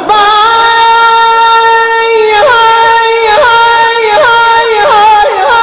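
A high solo voice singing without words: one long held note for about two and a half seconds, then quick melismatic turns swooping up and down in pitch.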